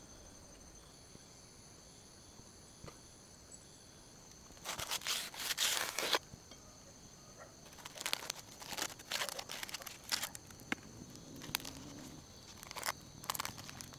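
Insects chirping steadily in the background; after about four and a half seconds, bursts of crunching, crinkling rustles begin, as of dry plant material being handled or trodden on, and come and go until near the end.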